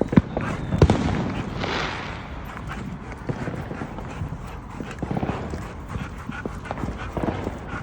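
German Shepherd dogs on a walk: dog noises over footsteps, with a few sharp knocks and clicks, the loudest about a second in.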